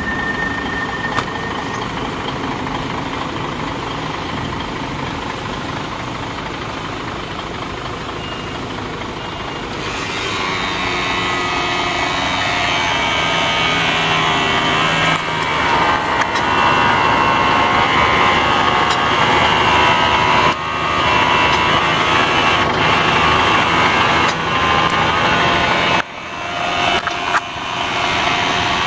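Isuzu 6WG1 inline-six diesel engine of a truck tractor running. It grows louder about a third of the way in and then holds a higher, steady level, with a couple of brief dips near the end.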